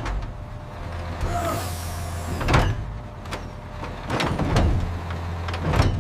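A steady low machine hum with a handful of sharp knocks spread through it; the hum cuts off just before the end.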